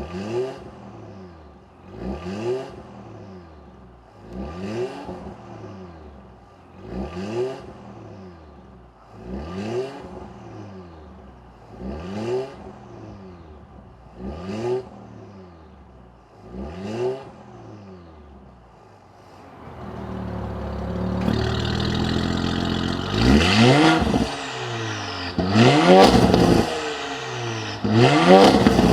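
Porsche E3 Cayenne S 2.9-litre twin-turbo V6 through a Stone Exhaust catalytic downpipe and valved cat-back exhaust, revved in short blips about every two and a half seconds. From about twenty seconds in the exhaust runs louder, with three bigger revs that each fall away afterwards.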